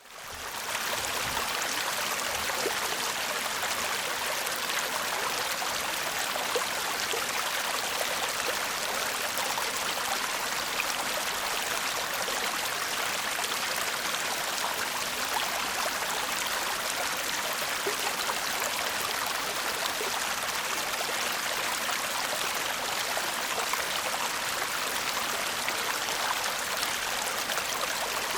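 Shallow stream babbling and trickling over stones, a steady, even rush of water that fades in at the very start.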